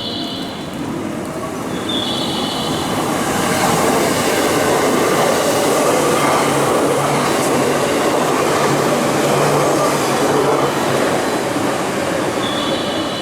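Electric train running past on the rails. The rumble builds over the first few seconds, holds loudest through the middle, then eases toward the end.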